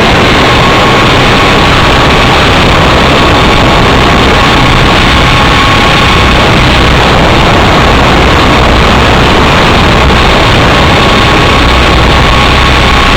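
Helicopter running steadily, loud, with a faint steady whine above the rotor noise.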